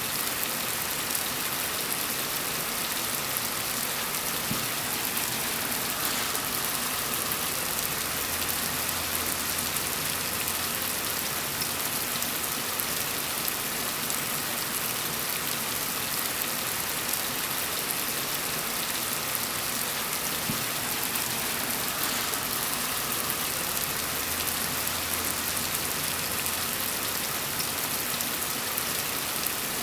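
Steady rain falling, an even, dense hiss of drops. A faint low rumble swells and fades twice underneath it.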